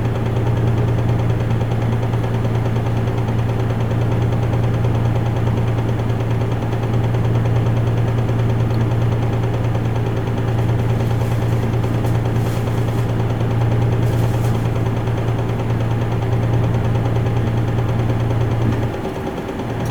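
Isuzu Erga Mio city bus's four-cylinder turbo-diesel running steadily, heard from inside the cabin as an even low drone with some rattling vibration. Near the end the drone drops and changes pitch.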